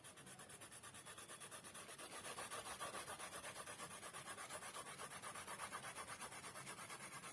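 Colour pencil shading on paper, scratching in rapid, even back-and-forth strokes.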